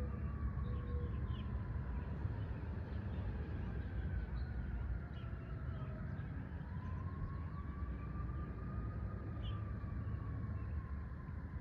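Outdoor ambience: birds chirping over a steady low rumble, with a faint siren slowly wailing down and back up.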